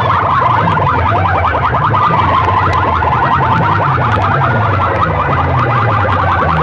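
Loud DJ sound system blasting a rapid, warbling alarm-like electronic tone over a heavy pulsing bass.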